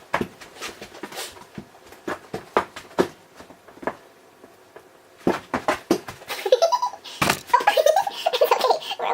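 Laughter: short breathy giggles at first, then louder, open laughter in the last two seconds or so.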